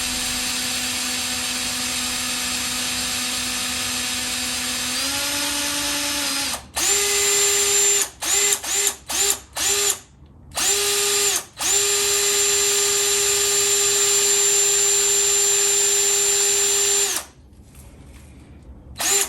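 Electric drill spinning an oil-pump priming tool in a Pontiac V8 to pump oil through the dry engine. It runs steadily and speeds up slightly about five seconds in. Then it runs in short trigger bursts at a higher speed, with one long run of about five seconds.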